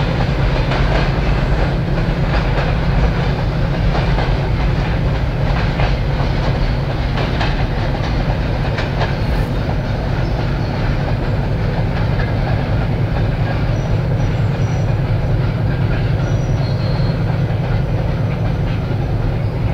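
Freight train of hopper wagons rolling away, the wheels clicking over rail joints, the clicks thinning out after about ten seconds as the last wagon goes round the curve. Under it runs a steady low rumble from the 10D100 opposed-piston two-stroke diesels of the 2TE10-series locomotives working at the head of the train.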